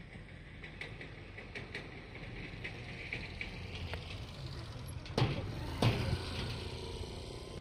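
Metal rattling and clicking from a suspension bridge's deck, with two loud clanks about half a second apart a little past the middle.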